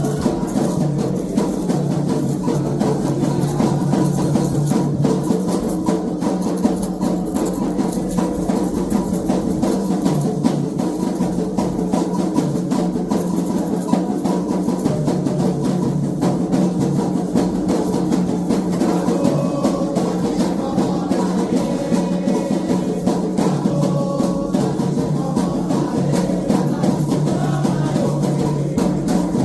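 Candomblé ceremonial drumming on atabaques, a dense, steady rhythm of drum strokes played without a break.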